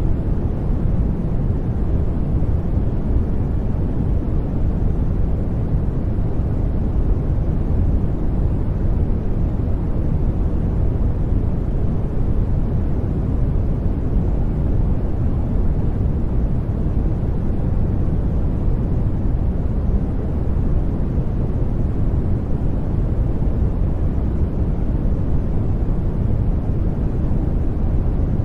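Steady, unbroken electronically generated noise, deep and rumbling rather than hissy, with most of its energy in the low end, closer to brown noise than to true white noise, though it is sold as white noise.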